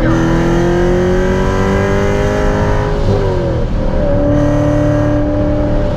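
Car engine heard from inside the cabin, pulling hard with its pitch climbing steadily. About three seconds in the pitch drops, as at an upshift, and the engine then pulls on again in the next gear.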